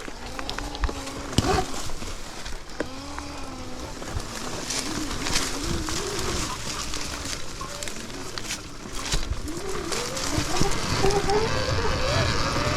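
Sur-Ron Ultra Bee electric dirt bike's motor whining, its pitch rising and falling with speed and climbing near the end, over clicks and rumble from the tyres on rough ground.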